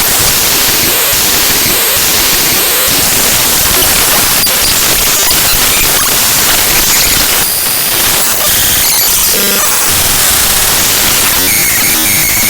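Raw binary data of the ffmpeg.exe program played directly as audio: loud, harsh static-like noise, broken by brief buzzy tones. Near the end it turns into a fast repeating glitchy pattern.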